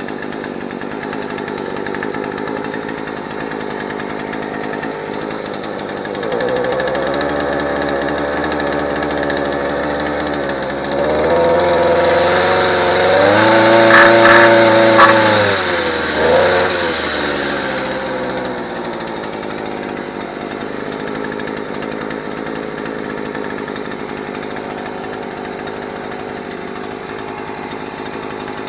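Chinese-made outboard motor with a double muffler running, during a periodic test run. It idles steadily, is throttled up in steps from about six seconds in to a peak near the middle, gives a short extra blip, and drops back to a steady idle.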